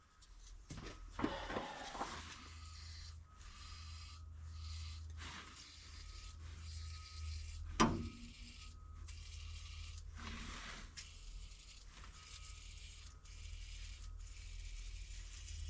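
Aerosol can of PB Blaster penetrating oil hissing in repeated short sprays onto the stuck valves, with a couple of sharp clunks, one near the start and one about halfway.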